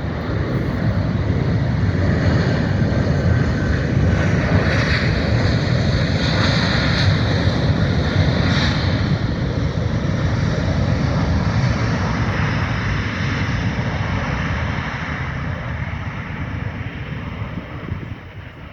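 Qantas jet airliner's engines during landing: a loud rush of engine noise with a high whine over it, building in the first couple of seconds, holding, then fading away near the end.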